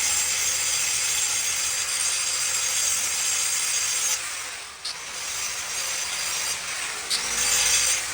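Handheld power tool grinding or cutting under load, a steady gritty noise with a high whine. It eases off briefly about halfway through and again near seven seconds, then stops at the end.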